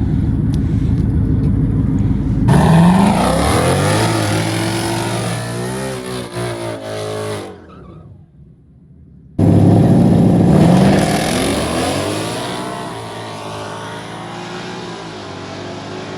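Ford Mustang 5.0 V8s idling at the line, then launching at full throttle, engines revving up in rising pitch and fading as they pull away. The sound cuts out abruptly about eight seconds in, then a second launch starts loud and fades the same way.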